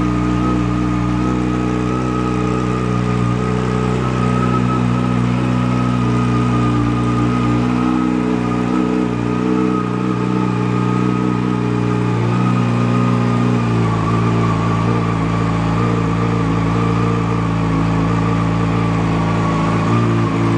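2012 Yamaha R6's inline-four engine idling steadily after a cold start, its pitch shifting slightly about two-thirds of the way through.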